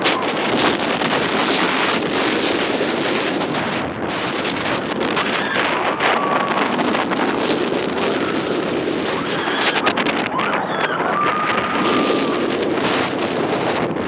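Strong wind buffeting the microphone, a steady rushing noise, with a few faint high-pitched cries about halfway through and again later on.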